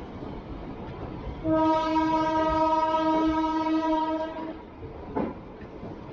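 Indian Railways locomotive horn sounding one steady blast of about three seconds, starting about a second and a half in. It sounds over the running noise of the moving passenger train, with a short knock near the end.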